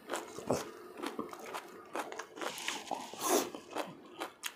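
Close-miked eating sounds: a person chewing, with short crunches, lip smacks and wet mouth clicks.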